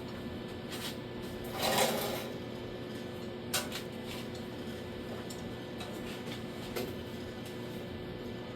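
Quiet workshop with a steady electrical hum, a brief rustling rush about two seconds in, and a single sharp click a little later, with a fainter tap near the end.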